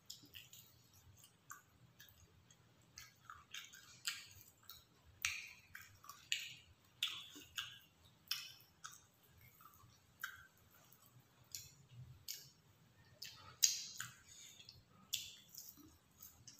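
Close-up chewing and mouth sounds of a person eating grilled chicken satay, an irregular run of short smacks and clicks about once or twice a second.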